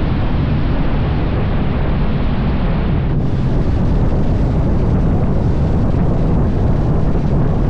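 Wind rushing steadily over the microphone of a moving motorcycle, with the bike's engine running underneath.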